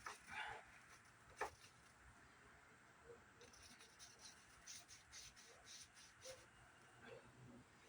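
Faint rubbing and scratching of a disinfecting wipe scrubbing dirt off a CRT monitor's plastic casing, with scattered light clicks and one sharp tap about a second and a half in.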